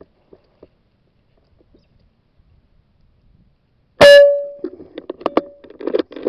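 A single rifle shot about four seconds in: one sharp crack with a brief ringing tone after it, followed by a quick, irregular clatter of sounds.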